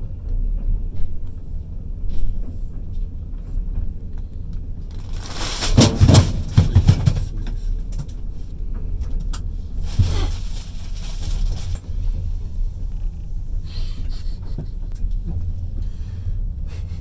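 Passenger train running on the rails, heard from inside the carriage at the window: a steady low rumble, broken twice by loud bursts of rushing noise, about a third of the way in and again a few seconds later.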